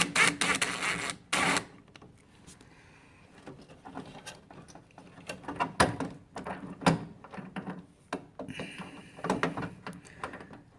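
Irregular clicks, taps and brief scraping of a driver bit and adapter working on a screw in the metal bracket of a refrigerator's water inlet valve, with a quieter pause in the middle.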